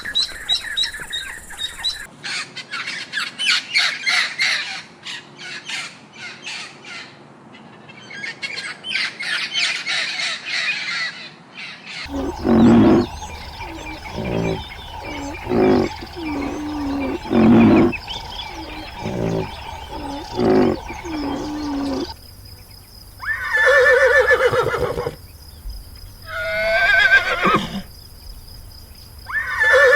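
Farm animal calls in three separate clips. First a fast run of bird chatter, then a string of short low calls about once a second, then long drawn-out calls lasting a second or two each.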